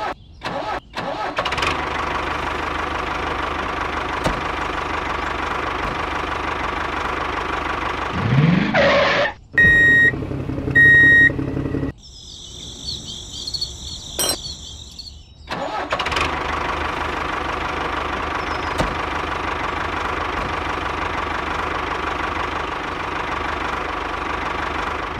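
Miniature model tractor's motor running steadily. About nine seconds in there is a brief rising whine, followed by two short high beeps. Then comes a quieter stretch of high whirring before the steady running picks up again.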